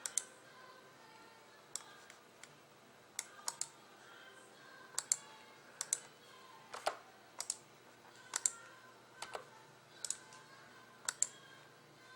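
Slow, hunt-and-peck typing on a computer keyboard: single key clicks at uneven gaps, some in quick pairs or threes.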